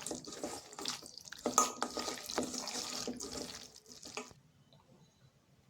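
Raw chicken being mixed by hand or spoon into a wet marinade of curd, ginger-garlic paste and spices, making irregular wet mixing sounds that stop about four seconds in.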